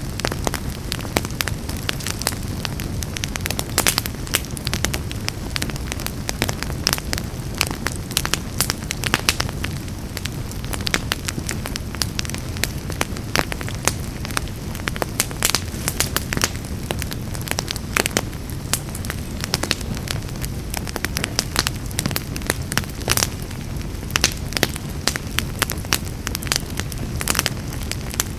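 Wood fire burning in a fireplace, crackling and popping continuously at irregular intervals over a steady low rumble of the flames.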